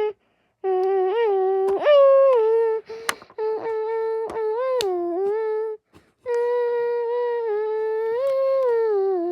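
A child humming long, held notes with small rises and falls in pitch, in three phrases with short breaks between them. A few light clicks sound among the notes.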